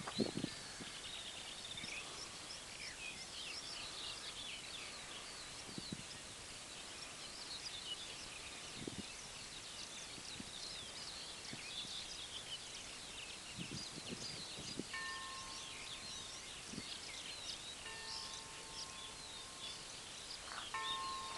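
Many small birds singing and chirping together, a steady chorus of short high notes, with a few low thumps now and then.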